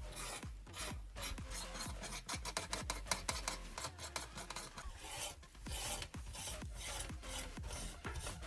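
Hand abrading of a small scale-model part: rapid back-and-forth rasping strokes, several a second, quickening around the middle.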